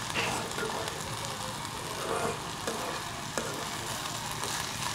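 Sweet pumpkin peels and seeds sizzling steadily as they fry in oil in a pan, with a spatula stirring them and clicking against the pan a few times.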